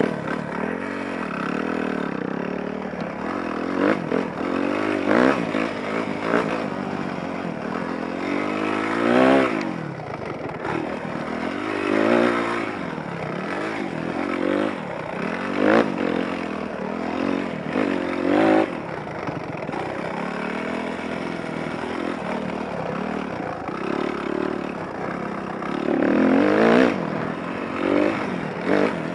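Motocross dirt bike engine revving up and down as it is ridden round the track, its pitch rising and falling again and again, heard close up from the onboard action camera.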